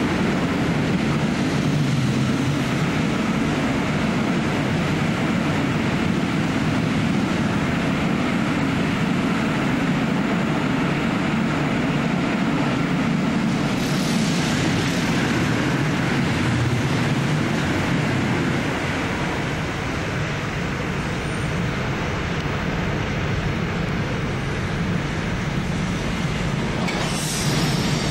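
Trains passing on the electrified main line: the continuous rumble of wheels on rail from a passenger train's carriages going by at speed, then a long rolling-highway freight train carrying lorries. A hiss rises about halfway through and again near the end.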